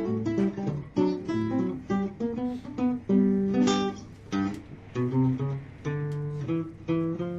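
Acoustic guitar music: a run of plucked notes and short chords, each struck sharply and ringing out.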